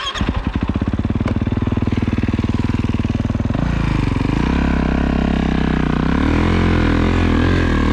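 Snowbike engine running steadily for about three and a half seconds, then revved, its pitch rising and wavering up and down with the throttle.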